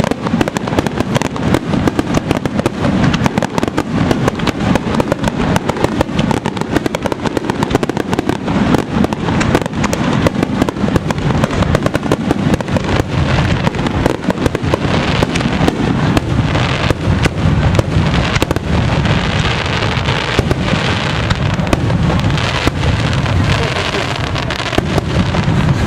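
Fireworks going off in a dense barrage: rapid cracks and bangs that follow one another with hardly a break.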